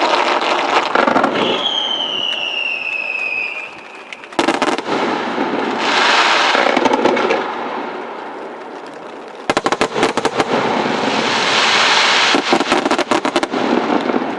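Aerial fireworks going off: rapid volleys of sharp bangs and crackles, with fizzing crackling showers lasting a second or two. A falling whistle sounds about two seconds in.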